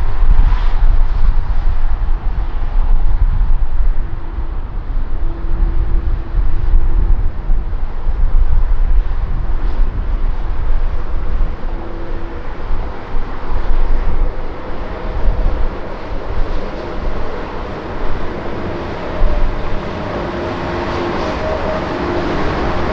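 Jet airliner engine noise, a low rumble with steady engine tones that come and go and build toward the end, with wind buffeting the microphone.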